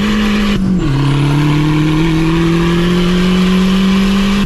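Car engine under hard acceleration in a roll race. Its pitch drops at an upshift just under a second in, then climbs steadily through the next gear.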